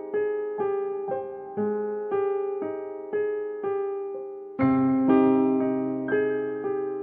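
Slow electric piano music: single notes struck about twice a second and dying away, with a deeper bass layer coming in about halfway through.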